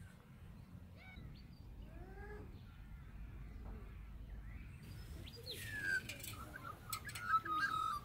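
Wild birds calling in short, curved chirps. In the last three seconds, louder chirps and a few sharp clicks and knocks come in.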